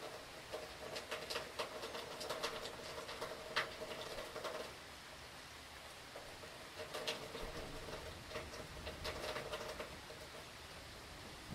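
Rain from a hurricane pattering in irregular gusts of sharp taps, coming in two waves of several seconds each with a short lull between them.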